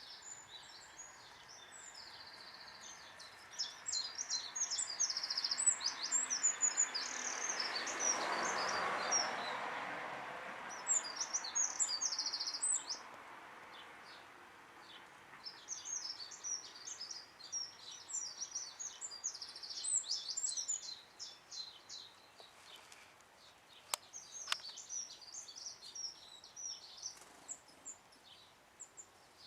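Songbird singing a rapid, high twittering song in bouts of several seconds, with short pauses between them. Under it, a broad rushing noise swells and fades about a third of the way through, and there is one sharp click late on.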